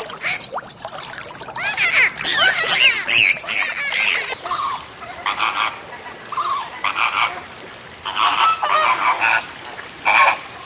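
Animal calls: a dense run of calls that bend up and down in pitch for about four seconds, then shorter pulsed calls that repeat at intervals to the end.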